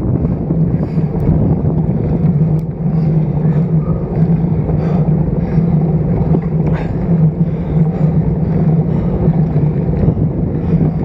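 Wind rushing over the microphone of a bike-mounted action camera while riding a road bike, with a steady low hum underneath.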